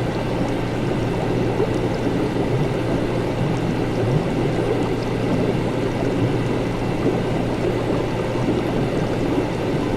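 Steady laboratory ambience: continuous bubbling, gurgling liquid over a low, even hum, unchanging throughout.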